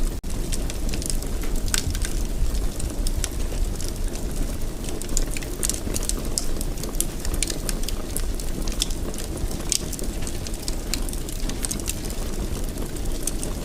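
Wood fire burning in a fireplace: a steady low rumble with sharp, irregular crackles and pops several times a second. There is a momentary gap in the sound just after the start.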